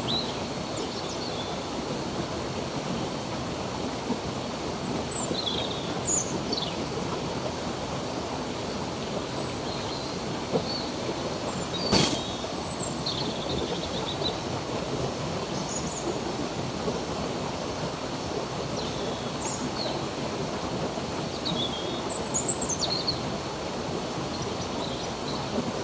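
Water flowing steadily in a stream, with small birds giving short, high chirps on and off throughout. A faint thin high tone runs steadily underneath, and there is one sharp click about halfway through.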